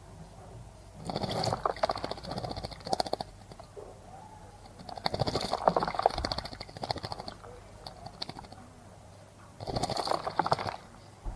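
A bird bathing in shallow water, fluttering its wings and splashing in three bursts of one to two seconds each.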